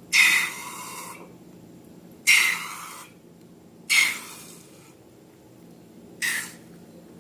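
Slime being squished and squeezed, four short squelches roughly two seconds apart, each starting suddenly and fading within about a second; the last is shorter.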